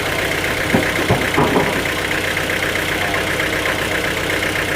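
Sawmill engine running steadily, with a few knocks about a second in.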